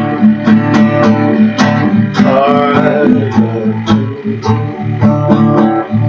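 Guitar strummed in a steady rhythm, about two strokes a second, playing the instrumental lead-in to a gospel song.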